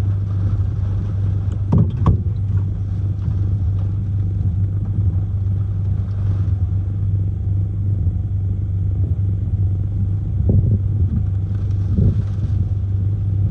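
Hurricane-force wind buffeting a van, heard from inside as a loud, steady low rumble, with a few short louder knocks or gusts about two seconds in and twice near the end.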